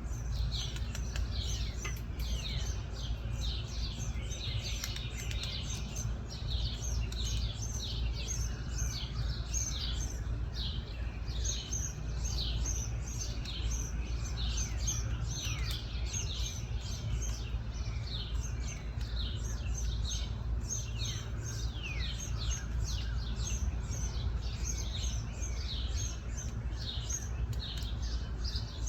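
Small birds chirping continuously: many short, high, downward-sliding chirps, several a second, over a steady low rumble.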